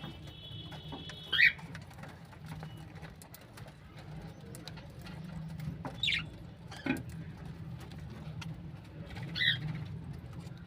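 Budgies chirping: three short high calls, about a second in, around six seconds and near the end, over a steady low sound, with one sharp click in between.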